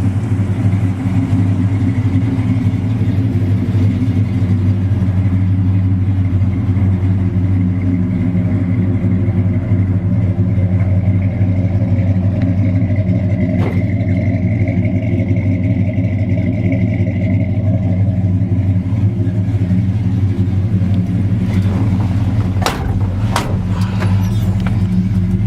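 A 1972 Chevrolet C10's 350 V8, with aluminum heads, a mild cam and headers into a Flowmaster dual exhaust, running steadily as the truck is driven: a steady low drone, with a few sharp clicks near the end.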